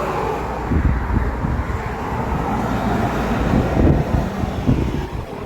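Vehicle driving along a road: a steady low rumble of road and engine noise, with some wind noise.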